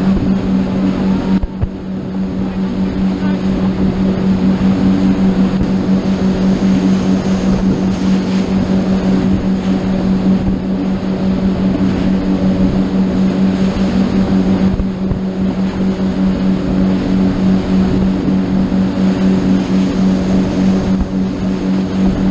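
Motorboat engine running steadily while underway, a constant low drone with a few higher overtones, over an even rushing noise of wind and water.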